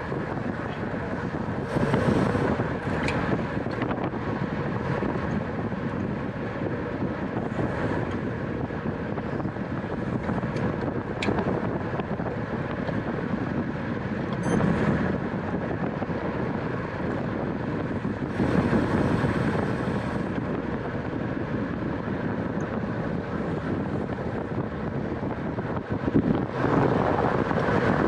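Wind rushing over the microphone of a rider's camera on a racing bicycle, a steady rush with louder gusts about two seconds in, around eighteen seconds in, and near the end.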